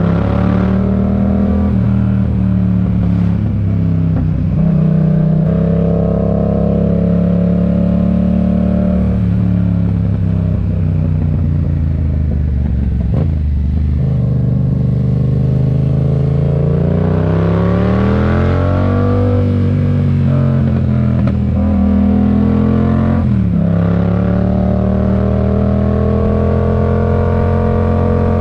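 Yamaha MT-07's parallel-twin engine through an aftermarket RoadsItalia exhaust, riding along under power. Its pitch rises and falls with the throttle and drops sharply at several gear changes, with one long climb in revs about two-thirds of the way in.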